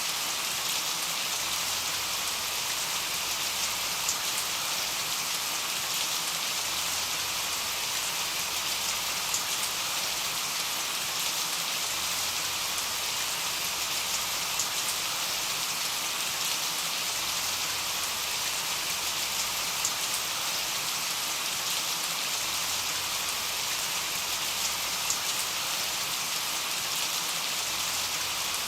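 Steady rain: an even, unbroken hiss of rainfall with scattered single drops ticking out above it.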